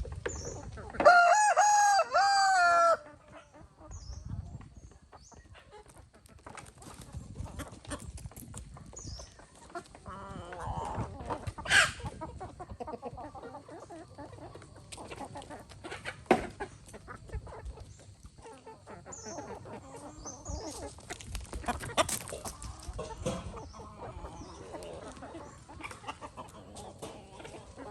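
A rooster crows once, loud, about a second in and lasting about two seconds, followed by softer clucking of chickens with scattered knocks and rustles.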